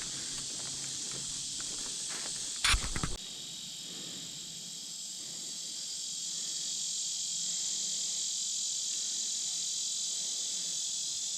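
A steady, high, shimmering buzz of summer insects that swells louder about halfway through. Early on there are light footsteps on the trail, and a brief loud rustle or knock comes just before three seconds in.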